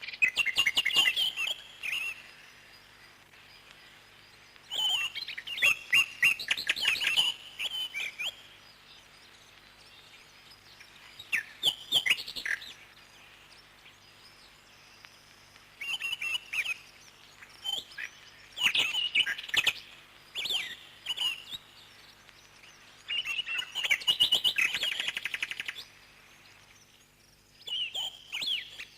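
Parrot chirping in bouts of rapid, high trilling chirps a few seconds long, with quiet pauses between them.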